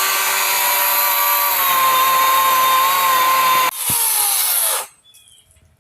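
Power saw running at full speed, cutting through a wind-broken tree branch with a steady high whine. It breaks off briefly about three and a half seconds in, then winds down with falling pitch and stops near the five-second mark.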